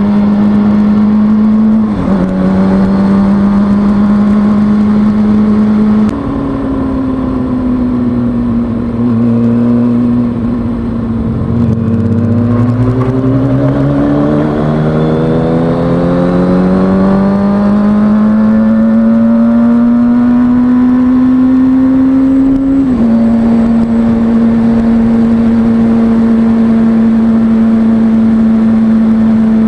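2003 Kawasaki ZX-6R 636 inline-four engine under way. It runs at steady revs, drops off around ten to twelve seconds in, then climbs steadily in pitch for about ten seconds as the bike accelerates. Near the end the pitch falls suddenly, as at an upshift, and it settles back to steady running.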